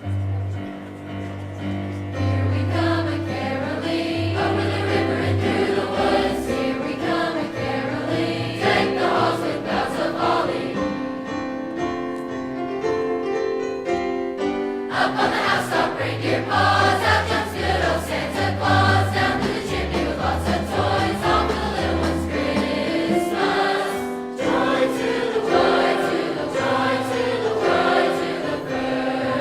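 High school choir of a couple of hundred voices singing a Christmas song over an accompaniment with a bass line. It starts abruptly, and the voices thin out for a few seconds in the middle.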